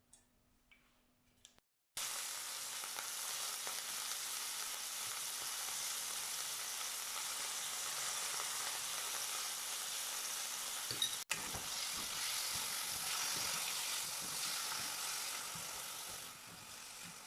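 Diced chicken breast frying in hot oil in a pot, a steady sizzle that starts suddenly about two seconds in. It breaks off for an instant partway through, and a few light knocks of stirring come in later.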